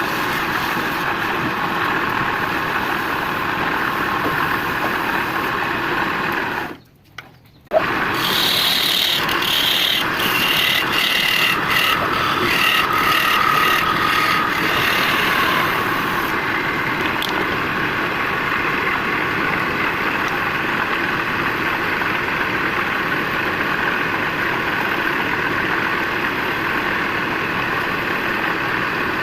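Woodturning lathe running with a steady noise. After a brief break about seven seconds in, there are some eight seconds of scraping and squealing as something works against the spinning piece; then the lathe's steady noise runs on alone.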